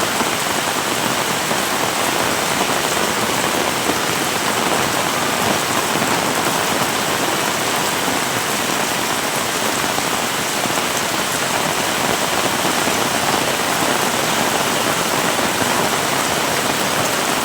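Heavy rain pouring steadily and evenly, a dense patter of rain on surfaces.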